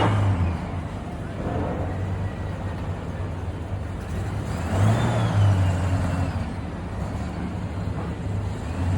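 Classic car engines running at a low steady drone, one growing louder and rising in pitch about five seconds in before easing off.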